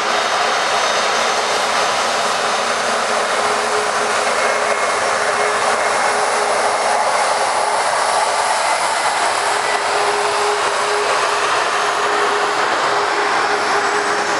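Jet airliner engines running loud and steady, a rushing roar with a thin whine through it and a faint high whine rising near the end.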